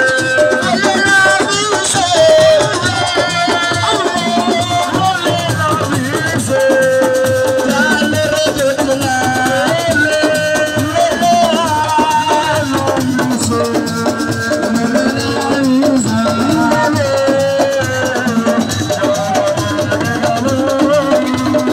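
Live band dance music: a shaker rattles along with drums under a melody of held and moving notes.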